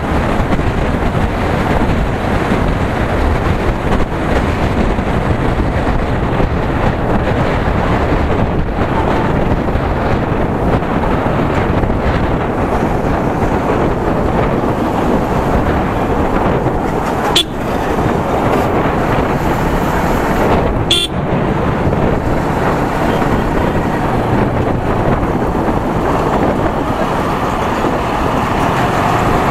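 Yamaha R15 V3 motorcycle ridden on the road: a steady rush of wind and road noise over the microphone, with the single-cylinder engine running beneath it. Two brief sharp clicks come about two-thirds of the way through.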